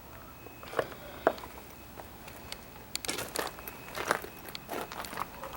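Footsteps crunching on gravel: a couple of scattered clicks, then a quicker run of crunches from about three seconds in.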